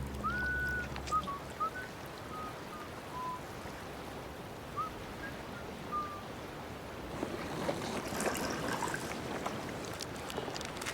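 Water lapping and trickling around kayaks sitting in brash ice, with a string of short, thin whistled chirps over the first six seconds and a slightly louder stretch of water noise near the end.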